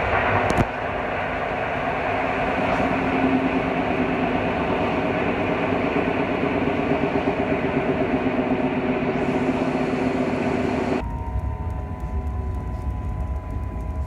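Polish EN57ALd electric multiple unit running, heard as steady train running noise. About eleven seconds in the sound cuts abruptly to a deeper rumble with a few steady high tones.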